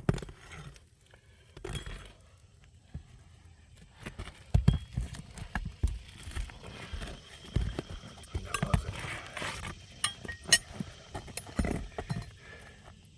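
Hand work on asphalt roof shingles: irregular knocks, clicks and clinks of tools and nails against the shingles, with a rougher scraping stretch about two thirds of the way in as a stiff shingle is pried up.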